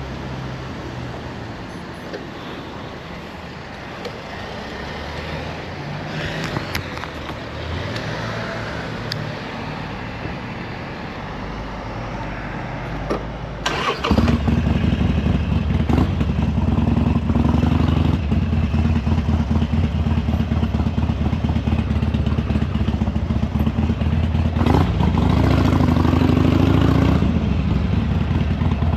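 Harley-Davidson Sportster Iron 883's air-cooled V-twin engine is started about halfway through and settles into a steady idle, with a short rev near the end. Before it starts there is only quieter background noise.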